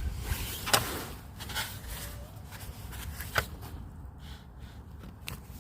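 Handling noises from picking up and fitting a new rubber steering rack bushing: a low, uneven rustle with two sharp clicks, one just under a second in and one a little past the middle.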